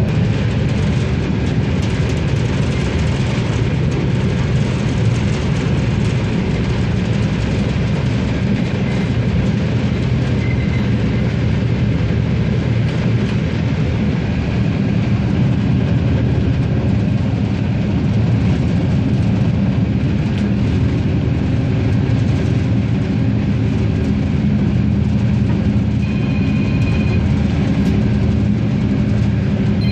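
Regiosprinter diesel railcar running at a steady speed, its engine giving an even low drone along with the rolling noise of the wheels on the track. A short, thin high tone sounds near the end.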